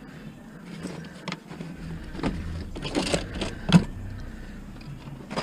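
A series of sharp metal knocks and clanks, about five, the loudest about three-quarters of the way in, from handling a scrap barbecue and the propane tank threaded onto it.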